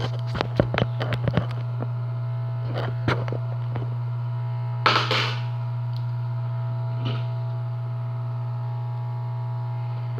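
A steady low electrical hum with a few faint steady tones above it, broken by scattered small clicks and taps: a quick cluster in the first second or so, a couple near three seconds, and a louder short scrape about halfway through.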